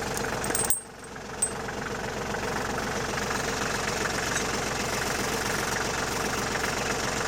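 Tractor engine idling steadily, with a short drop in loudness about a second in and a single click just after.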